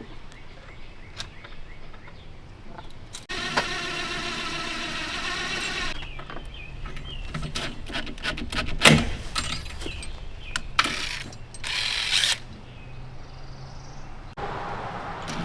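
A power drill runs steadily for about two and a half seconds while fasteners for a barn door latch are driven. It is followed by scattered clicks and knocks of metal hardware being handled, and a second short tool burst near the middle.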